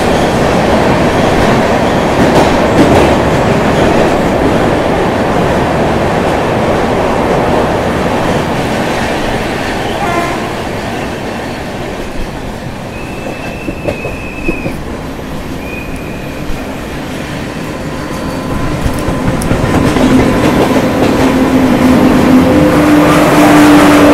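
Passenger train running at speed, wheels clattering over the rails. Two short high horn toots come in the middle, and a steady low droning tone builds as the noise grows louder near the end.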